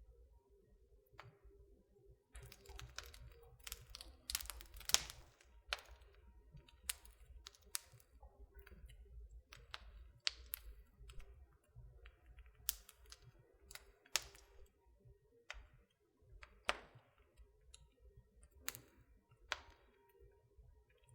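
Wood fire in a fireplace crackling: irregular sharp pops and snaps, thickest and loudest about four to five seconds in, over a faint low rumble.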